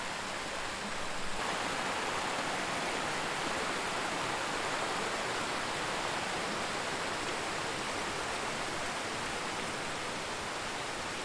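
Steady rush of flowing stream water, a little louder from about a second and a half in.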